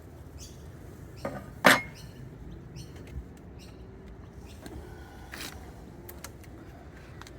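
A few handling knocks and clicks. A light knock is followed about half a second later by a sharp, louder knock about a second and a half in, then scattered light clicks.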